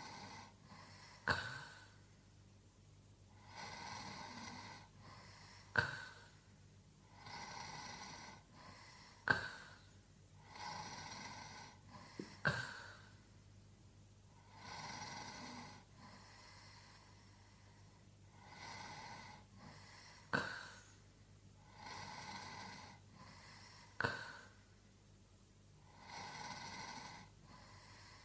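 A sleeping man snoring in slow, regular breaths, about one every three and a half seconds. Several of the breaths end in a short, sharp snort.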